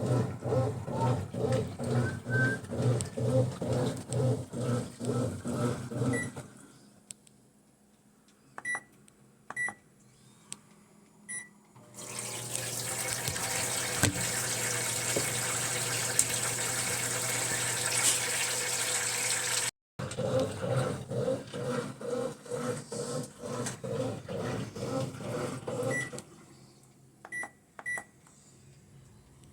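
Brastemp washing machine's control panel beeping a few times, then water running steadily into the tub for several seconds. Before and after this, a rhythmic pulsing sound repeats about three times a second.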